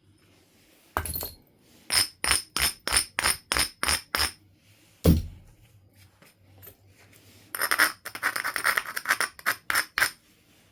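Flint being knapped: a heavy strike on the stone about a second in and another about five seconds in, each with a deep thump. Between them comes a quick, even run of sharp ringing clicks, and near the end a dense burst of rapid scratchy strokes as the flint's edge is worked.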